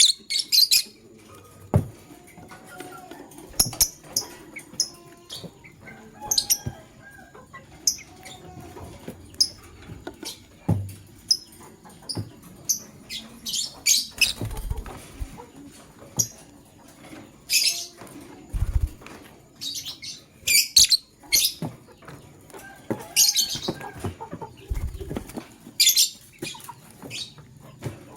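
Lovebirds giving many short, sharp, high-pitched chirps at irregular intervals, some in quick clusters, with wings flapping and a few dull low thumps.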